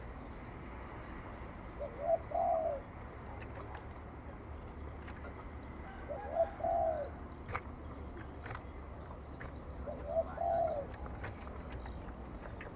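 Spotted dove cooing: a short phrase three times, about every four seconds, over a low steady hum with a few faint clicks.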